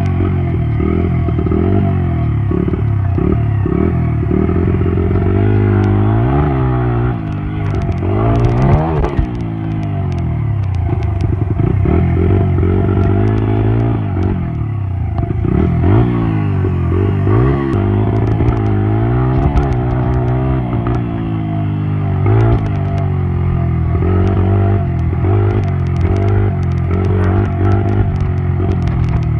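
Dirt bike engine running and revving, its pitch repeatedly rising and falling, with some clattering.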